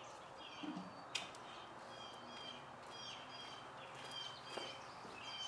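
Small birds chirping in short, repeated notes over a faint steady outdoor hiss, with a single sharp click about a second in.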